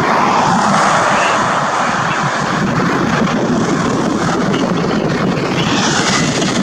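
Jet engines of an Airbus A320 airliner as it lands, a loud steady rushing noise.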